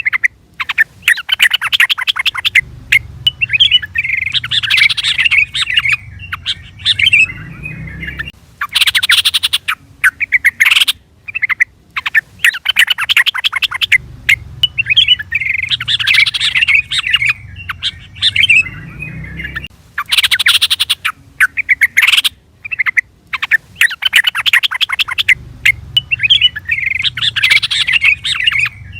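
Yellow-vented bulbul (trucukan) calling: loud bursts of rapid, bubbly chattering notes, the same phrase sequence coming round again about every six seconds like a looped recording, with a low rumble under some phrases.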